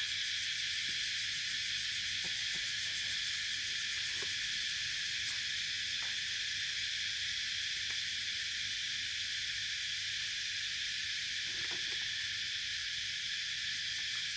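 Steady, high-pitched hiss of outdoor ambience that does not change, with a few faint soft knocks.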